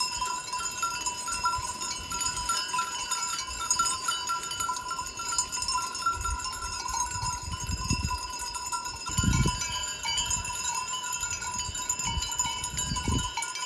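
Bells on a flock of grazing sheep ringing continuously as the animals move, several bell tones overlapping. A few low rumbles come through in the second half.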